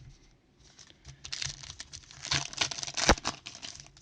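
Foil trading-card pack wrapper being torn and crinkled by hand: a dense crackle of short rips and crinkles that starts about a second in, with one sharp snap near the end.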